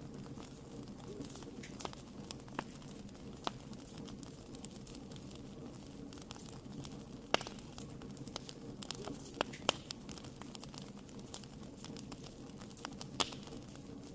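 Wood fire burning in a fireplace: a steady low rumble of flames with irregular sharp crackles and pops, a few louder snaps about halfway through and near the end.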